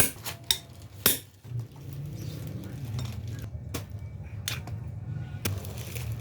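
Metal tools and parts clinking and knocking while work goes on: about five sharp metallic clinks, the loudest about a second in, over a steady low hum.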